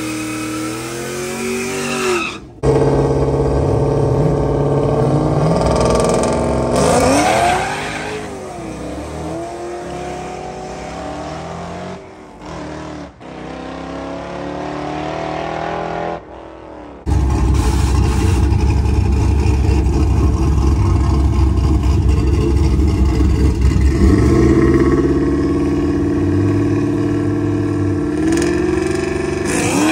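Drag-strip car engines, among them a fourth-generation Pontiac Trans Am's V8, revving hard with rising and falling pitch during a tyre-spinning burnout. The sound breaks off abruptly at two edits, about 2.5 s and 17 s in. After a quieter stretch of engine noise, a loud, steady low engine sound runs with a couple of revs near the end.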